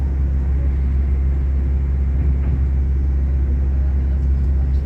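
A train running, with a steady low rumble that holds an even level.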